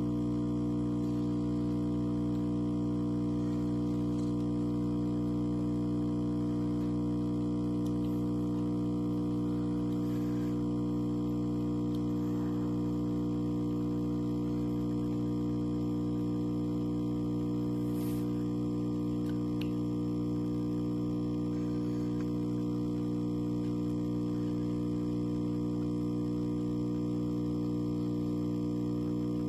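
Steady electrical hum with many overtones, unchanging throughout, with a few faint ticks.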